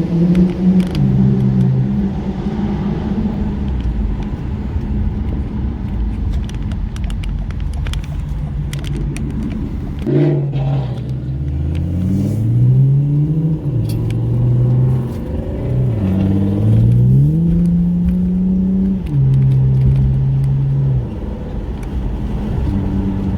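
Car engine running loud. Its pitch holds steady and steps between two levels, drops about ten seconds in, then rises and falls in several glides as the revs change.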